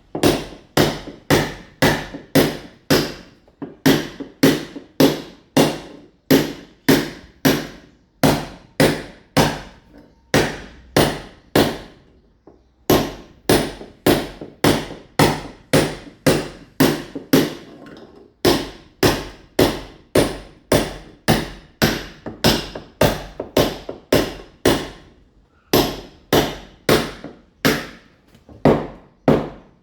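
Mason's club hammer chipping a masonry wall, roughening it to take ceramic tile. Sharp blows come at about two a second, in runs broken by short pauses every few seconds.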